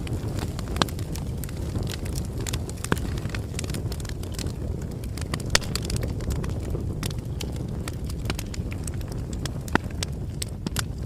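Campfire burning with a steady low rumble and irregular sharp crackles and pops of the burning wood, a few louder pops standing out.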